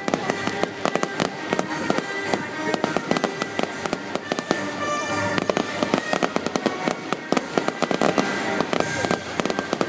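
Fireworks going off in a rapid, dense run of crackles and bangs, over loud music played through a public address system.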